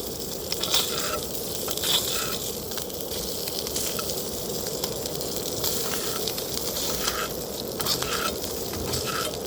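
Food frying in a pan on a camp stove: a steady sizzle with scattered pops and crackles.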